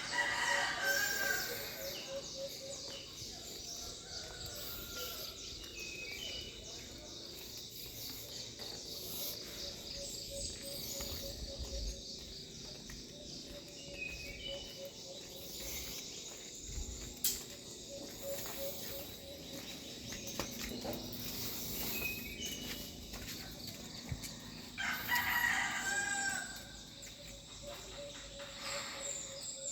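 Rooster crowing twice, once at the start and again near the end, over a steady high-pitched background buzz.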